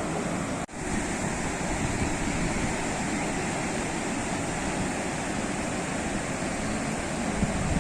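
Sea waves washing onto the shore in a steady, continuous surf, cutting out for an instant a little under a second in.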